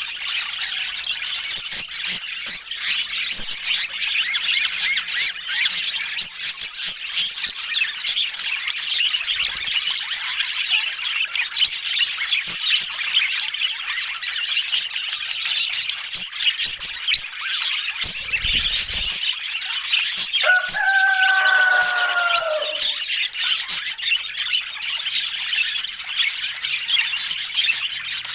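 A flock of budgerigars chattering and chirping continuously, with high squawks throughout. About three quarters of the way in, a rooster crows once, its call falling in pitch at the end.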